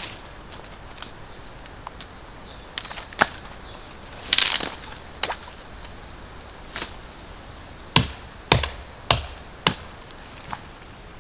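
Chopping: about a dozen sharp strikes on wood, irregularly spaced roughly a second apart, with a quicker, brighter cluster about four seconds in. Faint short high chirps sound between the first few strikes.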